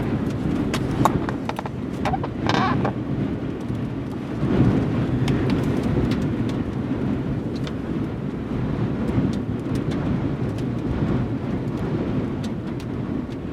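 Very strong rear-flank downdraft wind, around 70 to 80 mph, buffeting the microphone with a dense, rumbling rush, with scattered sharp ticks of debris or rain striking throughout.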